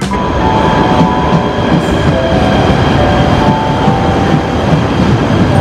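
KTM Komuter electric multiple-unit train running past close by: a loud, steady rumble of wheels on the rails, with a few thin whining tones that step up and down in pitch.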